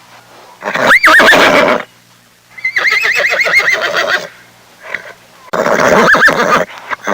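Horse whinnying three times: a call about a second in, a longer whinny with a rapidly quavering pitch in the middle, and a third call near the end.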